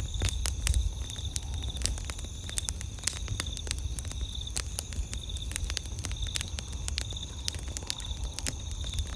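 Wood campfire crackling, with irregular sharp pops and snaps over a low rumble of the burning. Steady high-pitched insect trilling continues behind it.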